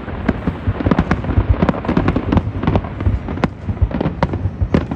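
A dense, continuous barrage of fireworks: many rapid, irregular bangs and crackles over a steady low rumble.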